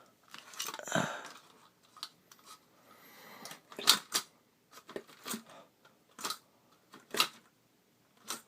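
Irregular light clicks and clinks, about a dozen spread unevenly, from hands handling a homemade Stirling engine and nudging its flywheel. There is no steady running rhythm: the engine is not turning over on its own.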